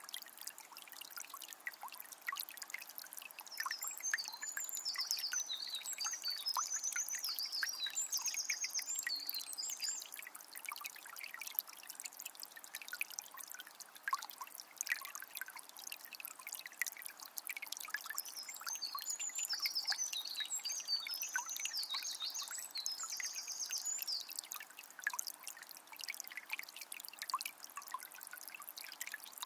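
A calm forest river trickling and babbling over stones in a steady stream of small splashes. A songbird sings twice over it, each time a long phrase of high chirps and fast trills lasting several seconds.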